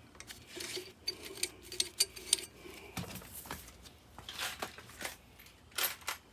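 Irregular light clicks and metallic clinks, a few a second, with a few sharper knocks: small metal parts or tools being handled.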